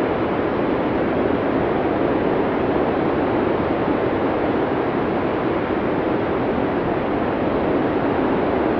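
Blizzard sound effect: a steady rush of storm wind, its noise centred in the low middle, without gusts or breaks.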